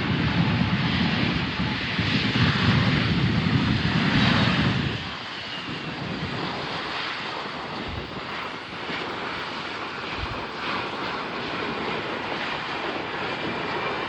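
Aircraft engines passing close, a loud rumble that drops away about five seconds in and fades to a steady hiss as the plane moves off.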